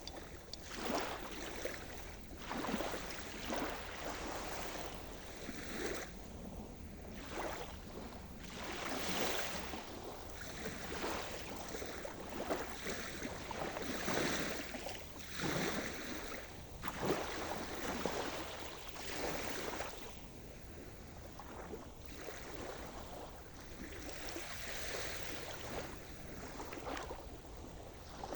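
Sea surf: small waves breaking and washing in one after another, a splash every second or two, with the strongest surges about halfway through.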